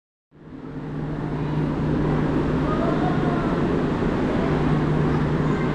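Station platform ambience fading in: a steady hum and rumble from red electric trains standing at the platform.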